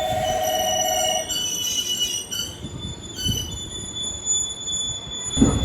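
Train wheels squealing against the rails, several high-pitched whistling tones overlapping and wavering. A steady pulsing electric ringing cuts off about a second in.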